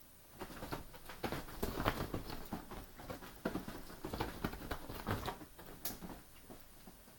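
A cat's paws thumping and scrabbling on the floor in quick, irregular footfalls as it chases a laser dot, starting just after the start and dying away near the end.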